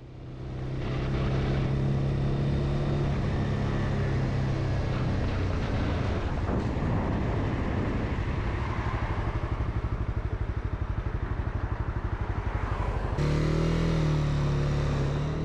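Honda CB300R's single-cylinder engine running while the bike is ridden, under a steady rush of noise. Its note holds steady for the first few seconds, turns rougher and more uneven, then switches abruptly to a new, slightly higher steady note near the end.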